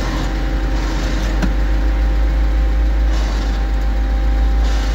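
Off-road 4x4 vehicle's engine running steadily, a deep continuous rumble.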